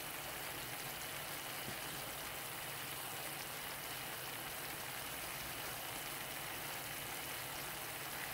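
Chopped cabbage cooking down in a skillet, sizzling with a steady, even hiss.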